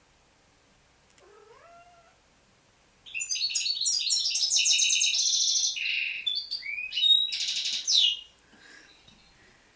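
A cat gives a short, faint rising meow, then birds sing loudly for about five seconds in rapid high trills and chirps.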